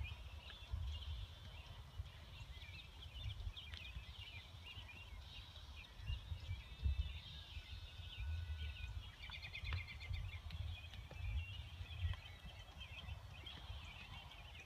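Several birds chirping and singing in short, quick phrases, with irregular low thuds underneath.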